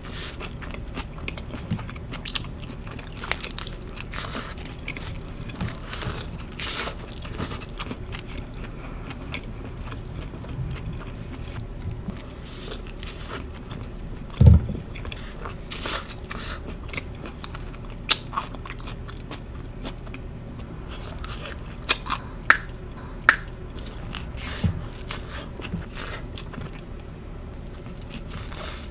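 Close-miked eating sounds of a person biting into and chewing a burger: crunchy bites and wet chewing with many short sharp mouth clicks, several louder ones in the second half. A single low thud comes about halfway through.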